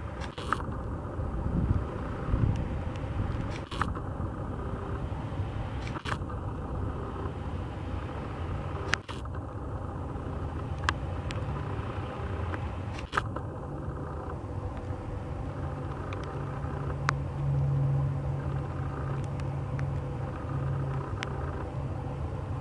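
A steady low engine hum that grows louder about two-thirds of the way in, with sharp clicks every few seconds.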